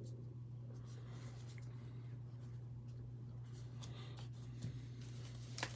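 Faint rustle and light ticks of trading cards and packs being handled, over a steady low hum. The ticks grow a little busier near the end.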